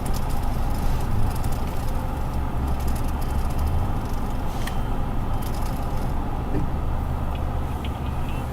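Steady low rumble of a vehicle running, with a single short click about four and a half seconds in.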